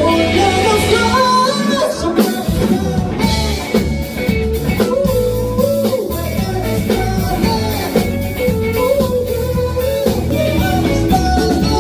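Band music: a singer carrying a melody over guitar, bass and drums.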